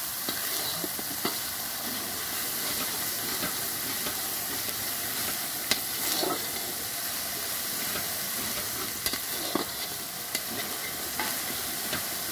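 Ginger and cumin spice paste sizzling in hot oil in a steel kadai, being slowly fried down (kashano) with a little water, while a metal spatula stirs it, with scattered clicks of the spatula against the pan.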